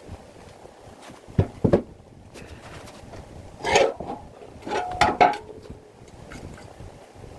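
Objects being handled: two dull knocks about a second and a half in, then two short bursts of clattering around the middle, the second with a brief ringing note.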